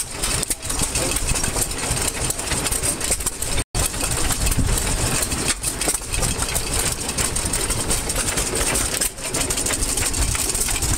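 Antique stationary gasoline engines running, a dense steady mechanical chugging and clatter. The sound drops out for an instant nearly four seconds in.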